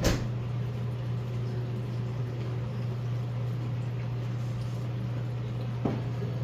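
Two sharp knocks over a steady low hum: a loud one right at the start and a smaller one near the end.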